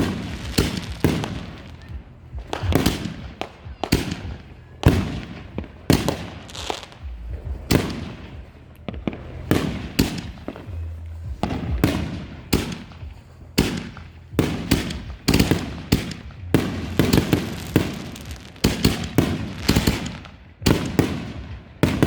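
Consumer aerial fireworks firing in rapid succession: a long barrage of sharp bangs, about one or two a second, each with a short rumbling tail.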